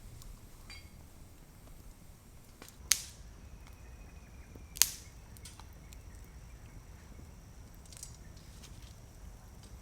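Two sharp cracks about two seconds apart, the loudest sounds here, then a few faint clicks over low background noise.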